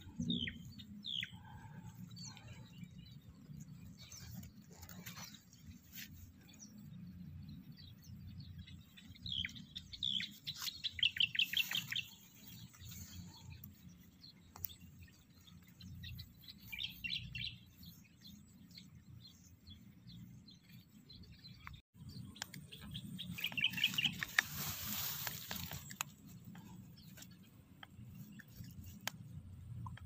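Wild small birds chirping in short calls and quick twittering runs, over a steady low rumble. A stretch of rushing hiss comes in about two-thirds of the way through.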